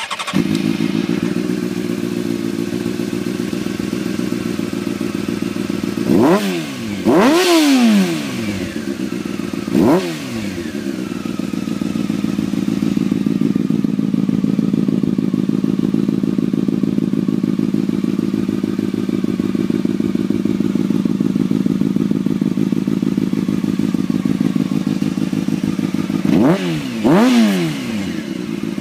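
Honda CBR600 F4i's inline-four engine idling through a Yoshimura RS-3 aftermarket exhaust, with three quick throttle blips that rise and fall in pitch, then steady idle, then two more blips near the end.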